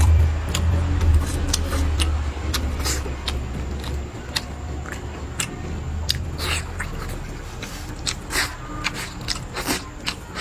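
Close-up eating sounds: biting and chewing with scattered sharp clicks, over a low rumble that is strongest in the first few seconds.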